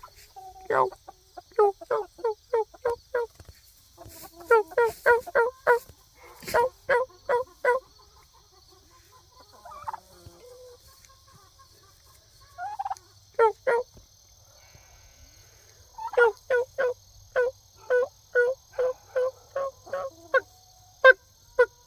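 A young male turkey gobbling, set off by the sound of a tractor. It calls in four bouts of quick, rattling notes, the last and longest running from about two-thirds of the way in to near the end.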